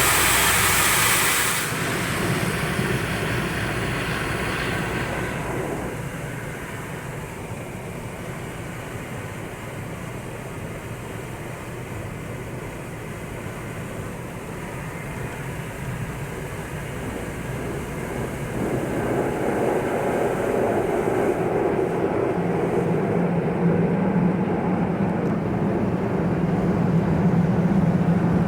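Automatic car wash machinery running: a loud hiss of spraying water that cuts off about a second and a half in, then a steady mechanical rumble. The rumble eases for a while, then grows louder again with a steady low hum in the last few seconds.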